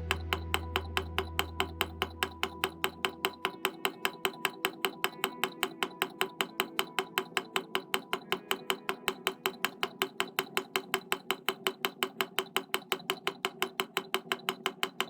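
Small demonstration Stirling engine running, its mechanism ticking in an even rhythm of about six clicks a second, one click per cycle. Background music fades out in the first few seconds.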